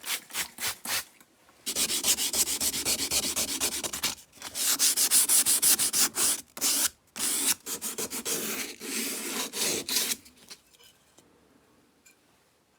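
Sandpaper rubbed by hand over a chainsaw part in preparation for painting. It begins with quick short back-and-forth strokes, then goes into longer runs of steady scraping, and stops about ten seconds in.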